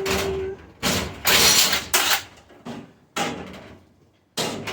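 Metal clanking and scraping as parts of a stainless steel restaurant dishwasher are worked loose by hand: about six short, uneven clatters, each dying away, with a brief squeal at the start.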